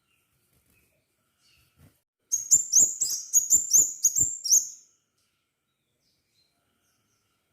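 Crimson sunbird singing a burst of about a dozen sharp, high chirps in quick succession, four or five a second, lasting about two and a half seconds, each note flicking upward.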